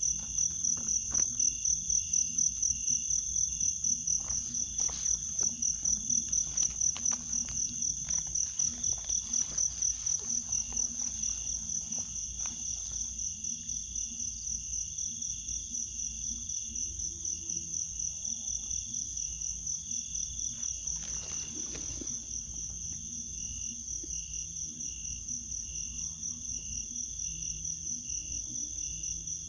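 Insects chirring in a steady, rapidly pulsing high-pitched chorus, with scattered rustling and clicks in the first half and again briefly near the end.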